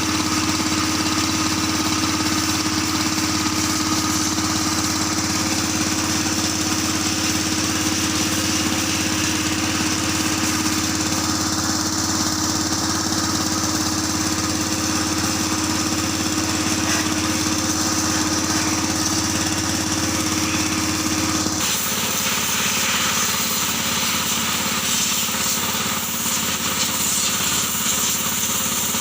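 Kubota L3608 tractor's diesel engine running steadily. Its note changes abruptly about three-quarters of the way through.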